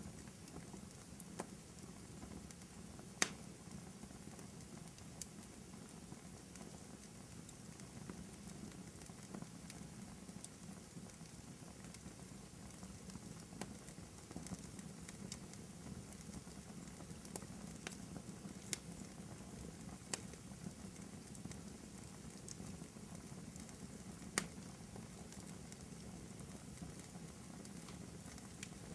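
Wood fire burning in a fireplace: a steady low rush of flames with sparse sharp crackles and pops from the burning logs, the loudest about three seconds in and another near 24 seconds.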